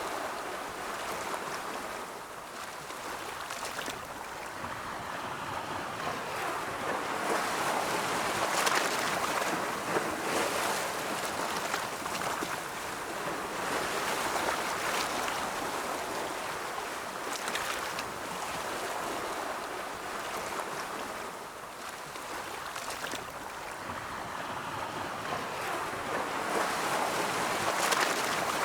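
Ocean waves rolling in and breaking on a shore: a continuous wash of surf that swells and eases every several seconds.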